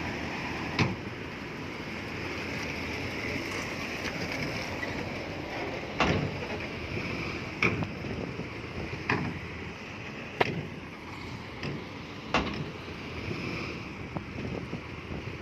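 Earthmoving machinery running steadily, with a sharp clank or knock about every one to two seconds, six in all.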